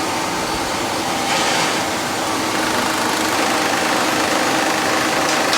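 Factory machinery running steadily, an even mechanical hiss with a low hum.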